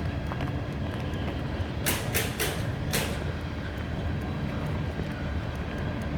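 Union Pacific freight train with EMD SD45 diesel locomotives rumbling past, a steady low rumble. Four sharp metallic clacks come between two and three seconds in.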